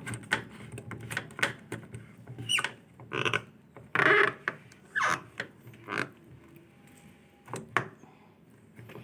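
Knocks and clicks of washing-machine parts being handled and refitted, with a short squeak about two and a half seconds in and a brief louder rasp about four seconds in.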